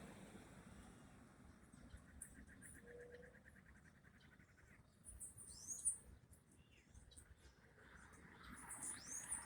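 Faint bird calls in a quiet setting: a rapid, even trill a couple of seconds in, then high chirps and short downward-sweeping whistles around the middle and again near the end.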